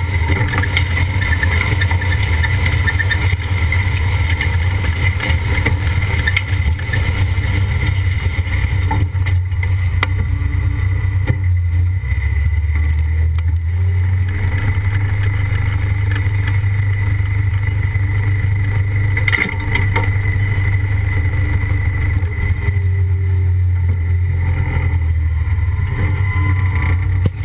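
Competition pulling tractor's engine running hard under load with a loud, steady low drone, heard from the weight-transfer sled it is dragging.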